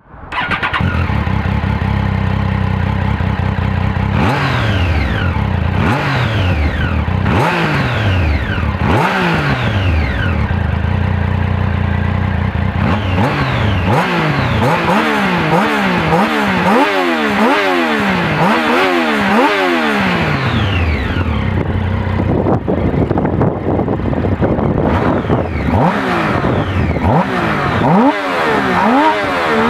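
Triumph Street Triple 675R's 675 cc inline three-cylinder engine on its stock exhaust. It idles at first, then is blipped again and again: single revs at first, then a quick run of short blips, then more uneven revving towards the end.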